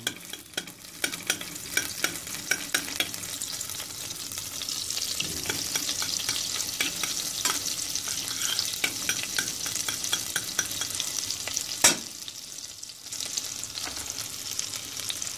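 Tomato paste and butter sizzling in hot oil in a stainless steel pot, with a metal spoon scraping and clicking against the pot as it is stirred. One sharp knock stands out near the end.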